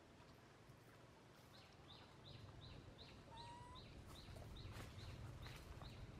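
A small bird calling faintly, a short high note that drops in pitch, repeated about three times a second from about a second and a half in, with one brief separate whistle near the middle.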